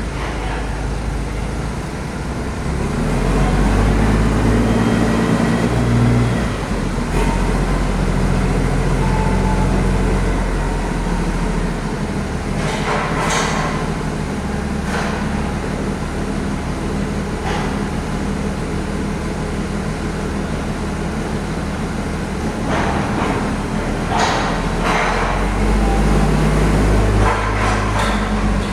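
Heavy road traffic: large diesel vehicles running, their engine note rising and falling as they move, with a few short sharp noises about halfway through and again near the end.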